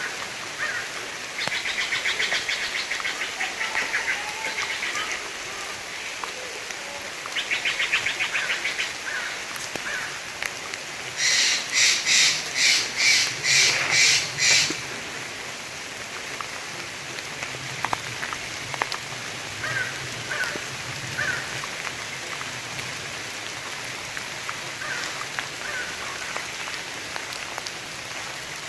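Steady rain falling in a forest with birds calling: a fast rattling call twice in the first nine seconds, then a run of seven loud, harsh calls about eleven seconds in, and a few faint chirps after that.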